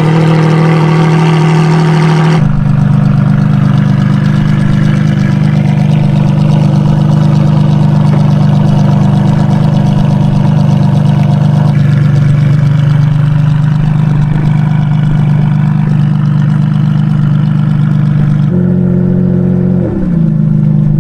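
Ferrari Enzo-based supercar's V12 engine running at a steady idle, loud and even. Near the end the engine note slides down and up as it revs.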